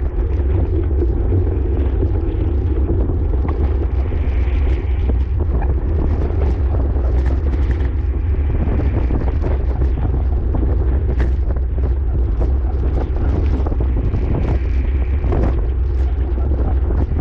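Wind buffeting a microphone carried at racing speed on a bicycle, a steady low rumble with a hiss above it and scattered faint ticks.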